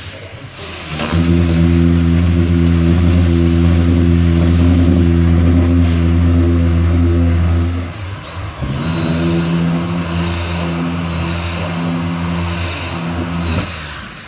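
Machine sander running steadily in two bouts, one of about seven seconds and one of about five, with a short break between.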